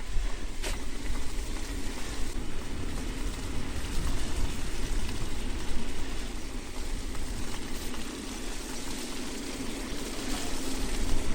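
Steady riding noise from an electric bike moving over a snowy road: low wind rumble buffeting the microphone, with a constant hiss over it.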